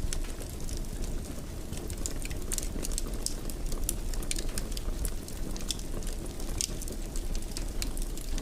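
Wood fire crackling in a fireplace: a steady low hiss of the burning logs with frequent, irregular sharp pops and crackles, several a second.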